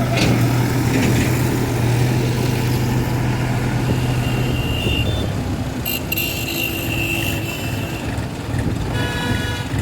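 New Holland 4710 tractor's diesel engine running steadily.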